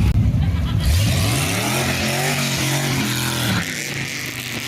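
A car engine with a loud low rumble, then accelerating: its pitch climbs for about a second, holds steady, and falls away about three and a half seconds in.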